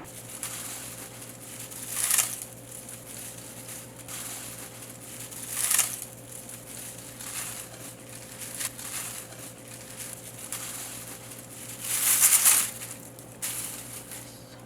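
Dried radish greens (siraegi) handled and rustling with a dry crinkle, swelling three times about 2, 6 and 12 seconds in, over a steady low hum.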